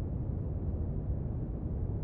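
Steady brown noise: an even, unchanging hiss weighted heavily toward the bass.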